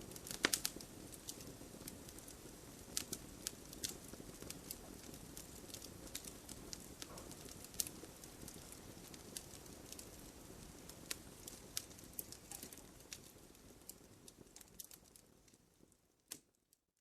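Wood campfire crackling, with sharp irregular pops over the low hiss of the flames. It fades out near the end, leaving one last pop before it goes silent.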